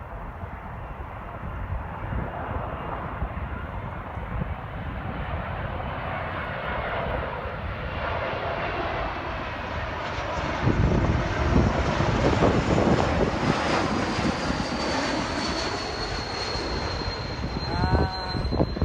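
Jet airliner landing: engine noise builds, is loudest from about ten to fifteen seconds in, then eases, while a high engine whine falls slowly in pitch. The landing is one the spotter calls a bit hard.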